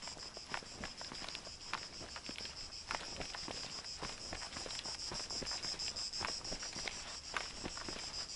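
Insects chirring in a steady high-pitched drone, with footsteps crunching irregularly about twice a second.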